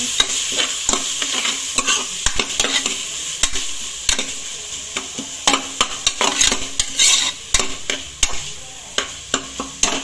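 Onions, tomatoes and green chillies sizzling in oil in a pressure cooker while a spatula stirs them, with frequent sharp clicks and scrapes of the spatula against the metal pot. The sizzle eases off a little in the second half.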